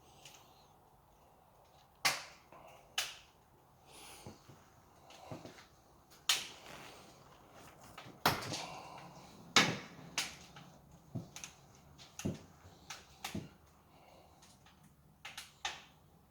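A series of irregular sharp knocks and clicks, some with a short ring after them, the loudest a little after two seconds, around six, eight and nine and a half seconds in.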